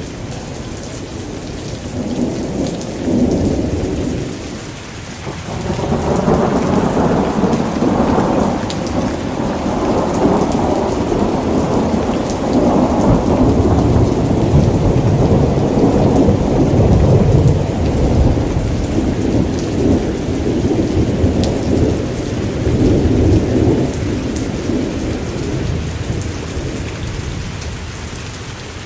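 Steady rain with rolling thunder: a first rumble swells a few seconds in and dips, then a long roll of thunder builds and slowly fades away near the end.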